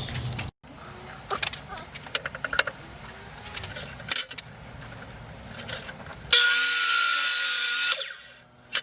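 Clicks and clatter of parts and tools being handled, then a power tool starts suddenly near the end, runs loudly for about a second and a half and winds down.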